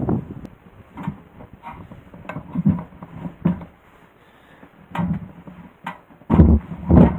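Irregular knocks and thumps, quieter in the middle, with two heavy thuds near the end.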